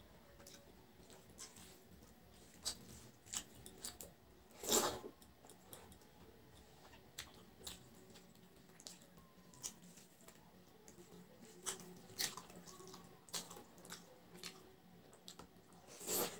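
Close-up eating sounds of a person eating rice and curry by hand: quiet wet chewing with many short lip-smacking and mouth clicks. There are two louder, longer mouthful sounds, one about five seconds in and one near the end as a handful goes into the mouth.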